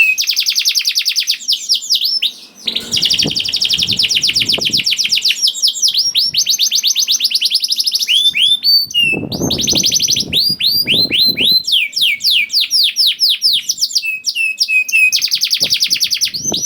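Domestic canary singing in long, fast trills of rapidly repeated sweeping notes, running on almost without pause and switching between rolling phrases. A low rumble sits under the song twice.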